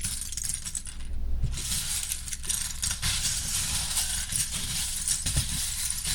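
Small plastic Lego pieces rattling and clinking against each other in a rapid jumble, with a short lull about a second in.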